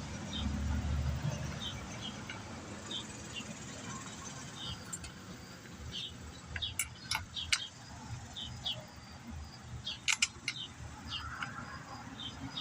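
Handling and tool noise while a spark plug is set back into a chainsaw's cylinder: a few sharp clicks and light metal taps, bunched about seven and ten seconds in, with faint short high chirps repeating in the background.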